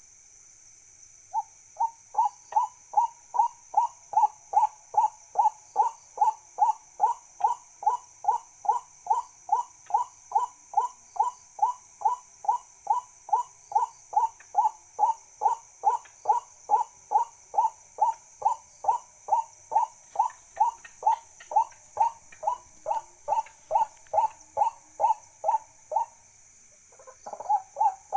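A bird calling the same short note over and over, about twice a second, for most of the time, stopping about two seconds before the end. A steady high-pitched hiss runs underneath.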